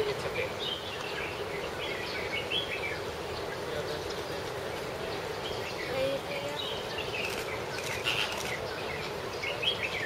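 Birds calling in short, scattered chirps over a steady background din.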